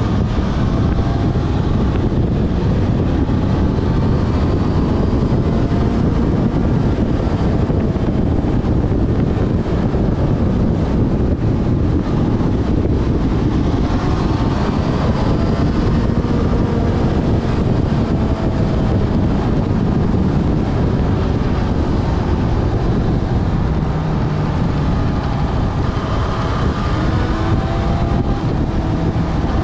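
Yamaha FZ6 Fazer's inline-four engine running at speed, its pitch rising and falling several times with the throttle, under steady wind rushing over the microphone.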